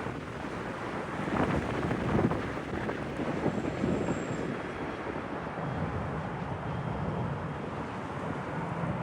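Jet engine rumble of a landing Boeing 757-200, mixed with gusty wind buffeting the microphone.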